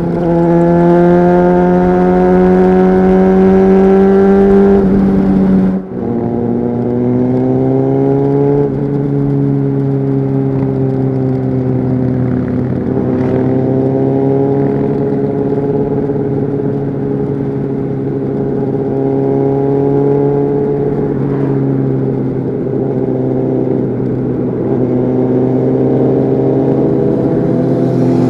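Honda CBR600RR's inline-four engine through a Leo Vince aftermarket exhaust, heard on board while riding: revs climb steadily, then drop sharply with a brief dip about six seconds in as it shifts up a gear. It then pulls up again and cruises at steady, lower revs that rise and ease slightly.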